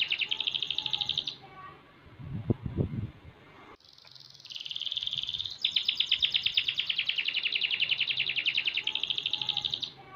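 Young domestic canary, about six months old, singing rapid trilled song: a short phrase at the start, then after a pause a long unbroken phrase of about six seconds that changes trill partway through.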